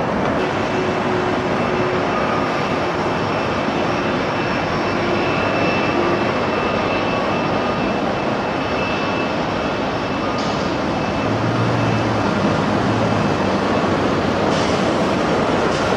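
Jet airliner's engines running, a steady loud rush with a faint high whine.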